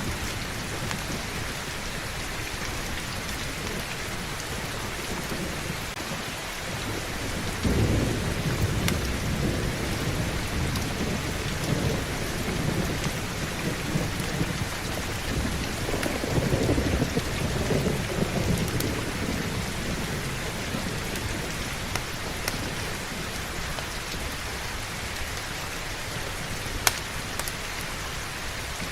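Heavy, steady rain with two low rolls of thunder, one breaking about a quarter of the way in and a longer one past the middle that fades away. A few sharp fire crackles near the end.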